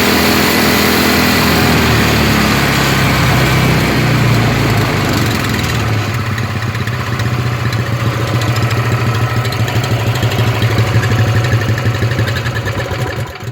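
Small Honda single-cylinder engine of about 6.5 HP running on gasoline vapour from a homemade vaporizer rather than liquid fuel. Its speed wavers slightly over the first few seconds, then it holds a steady idle. The sound cuts off abruptly at the very end.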